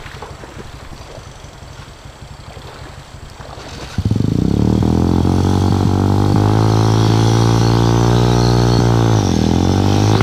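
Water and wind noise, then about four seconds in an off-road motorcycle engine close by starts abruptly and runs steadily and loud. Near the end its revs dip briefly and come back up.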